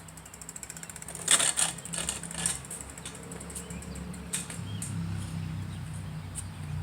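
Bicycle being handled and put away: a rattling clatter with rapid ticking about a second in, then a few sharp knocks, over a steady low hum.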